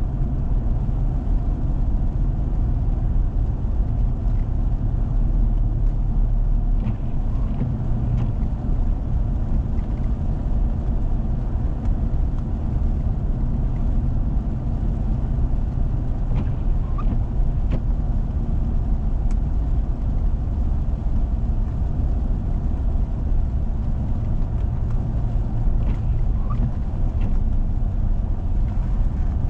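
Vehicle driving on a snowy road: a steady low rumble of engine and tyres, with a few faint ticks.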